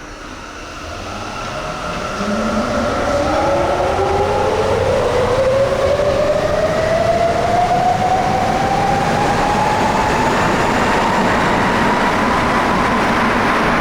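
Rubber-tyred Sapporo Municipal Subway 5000-series train pulling away, its inverter and traction-motor whine rising steadily in pitch as it accelerates. The train grows loud over the first two seconds, over a running rumble.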